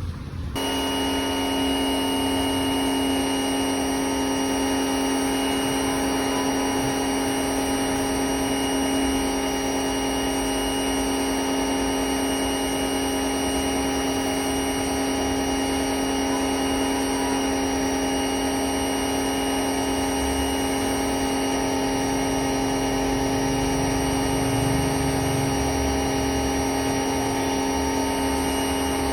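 Electric pressure washer switching on and running steadily, a buzzing motor hum with steady hiss.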